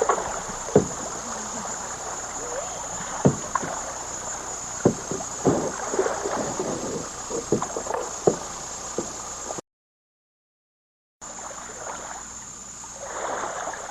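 Paddles splashing in the water and knocking against a small boat's hull as it heads off down a river, against a steady rush of water and wind. The sound cuts out completely for a moment about ten seconds in, then resumes as a steadier, quieter rush.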